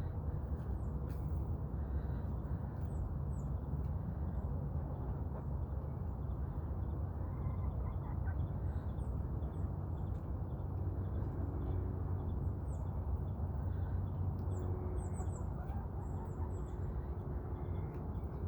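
Chickens in a pen giving faint, short, high calls, more of them in the second half, over a steady low rumble.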